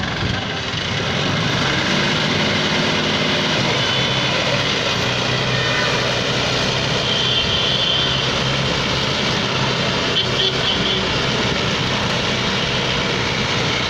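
Tractor engine running loudly and steadily, getting a little louder about a second in.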